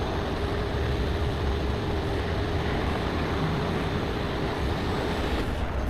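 Steady vehicle noise: a low engine rumble with a faint steady hum over an even wash of noise, unchanging throughout.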